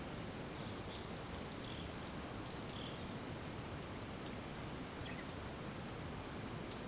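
Steady rain falling, with a few faint high chirps in the first half.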